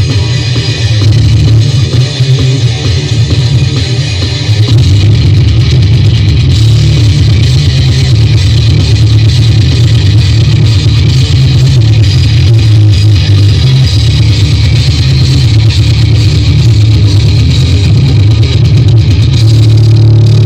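Rock-style music with electric guitar played very loud through a bass-heavy 'sound horeg' speaker system, the deep bass dominating the mix. The music gets a little louder about four to five seconds in.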